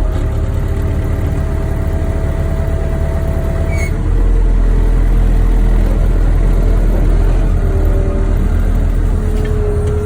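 Wheel loader's diesel engine running with a steady whine over it, the engine pulling harder and louder about four seconds in as the machine maneuvers under load.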